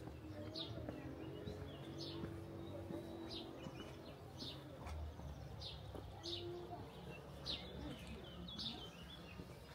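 A small bird chirping over and over, short high chirps about once or twice a second, over a low background rumble.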